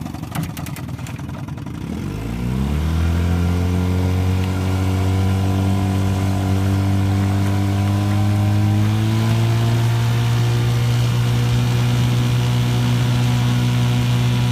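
1955 Johnson CD-12 5.5 hp two-stroke twin outboard motor opened up from a low idle: about two seconds in its pitch rises steeply and it gets louder, then it runs steadily at speed, climbing a little higher again about nine seconds in.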